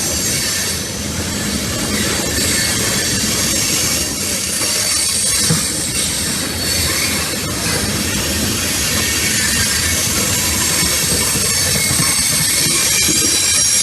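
Freight train cars rolling past on steel wheels, a steady loud rumble with high thin wheel squeal over it and a few sharp clicks from the rails.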